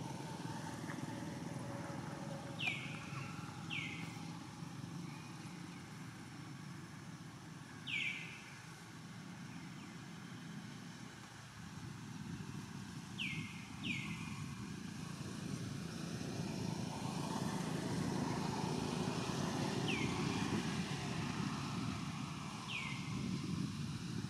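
A bird repeats a short, sharp, falling chirp, seven times at uneven intervals, two of them in quick pairs, over a steady low outdoor rumble that grows louder about two thirds of the way through.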